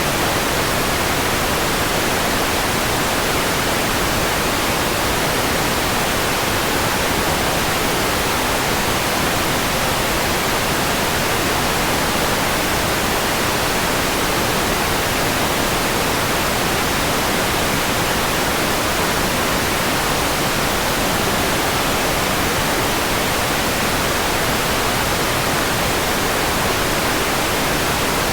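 Steady white noise: an even, unchanging hiss that holds the same level throughout.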